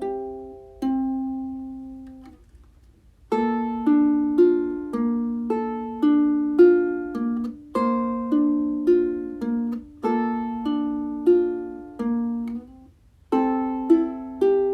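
Solo ukulele instrumental: a slow, gentle melody of plucked notes and chords, each ringing out and fading. It pauses briefly about two and a half seconds in, then resumes in a repeating phrase.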